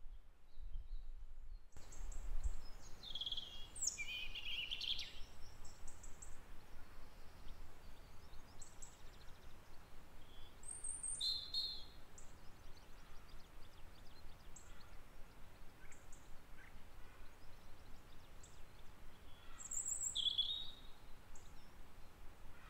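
Bird chirping in short clusters, about three to five, eleven and twenty seconds in, over the steady rush of river water that comes in about two seconds in.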